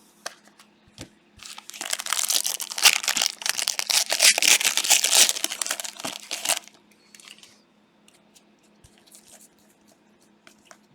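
Plastic trading-card pack wrappers crinkling and tearing as packs are ripped open: a dense burst starting about a second and a half in and lasting about five seconds, then only light clicks from the cards being handled.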